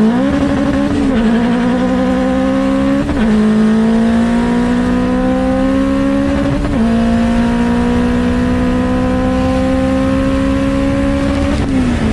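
Car engine under hard acceleration: it climbs in pitch through each gear, with three sharp drops as it shifts up, about one, three and seven seconds in. Near the end the pitch falls away as it lets off.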